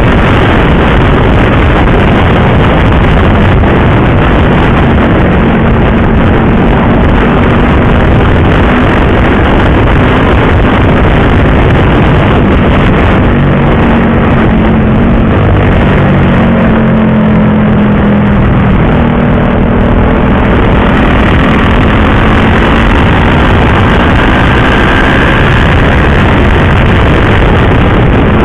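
Motorcycle riding at speed: steady, loud wind rush over the rider's camera microphone, with the engine's note faintly heard beneath it, rising in pitch near the end.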